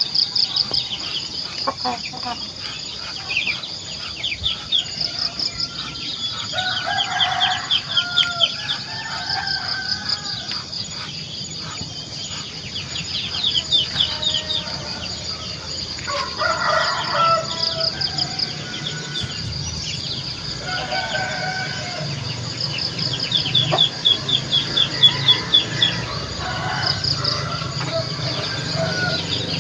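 Village chickens crowing and clucking, with louder calls about a quarter of the way in and again past halfway. Behind them, small birds chirp in rapid repeated trills over a constant high-pitched chorus.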